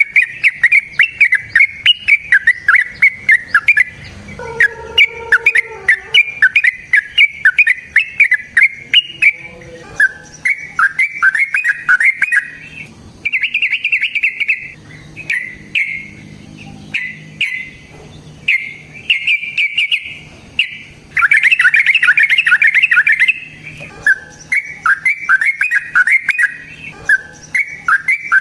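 Lovebird chattering in long runs of rapid, shrill chirps (the extended "ngekek" song), with a few denser continuous rolls and a lower call about four seconds in.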